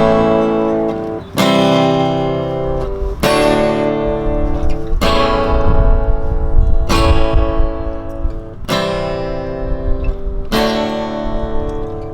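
Instrumental intro of a country-style song: acoustic guitar strumming a sustained chord, struck anew roughly every two seconds as the chords change.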